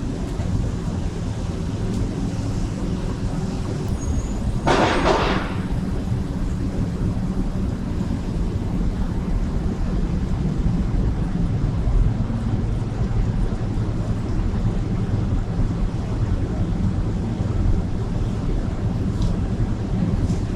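Steady low rumble of city street traffic, with one short, loud hiss about five seconds in.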